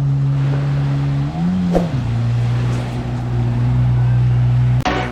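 Jet ski engine running at a steady pitch, with a brief rise and fall in pitch about one and a half seconds in. Music with a beat comes in near the end.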